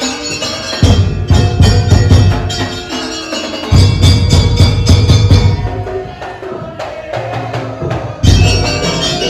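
Daul Madura music: a loud percussion ensemble of drums and wooden percussion over a sustained melodic line. Stretches of heavy booming bass start about a second in, again near four seconds and again near eight seconds.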